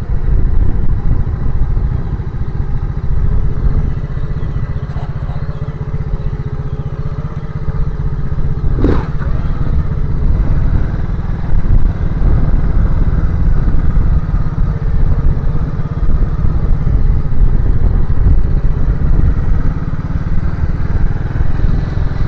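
Motorcycle engine running steadily under way, with a single sharp knock about nine seconds in.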